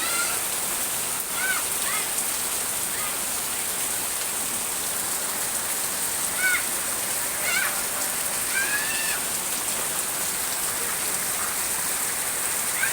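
Heavy rain pouring down in a steady dense hiss, driven by strong wind. A few short high-pitched calls sound over it now and then.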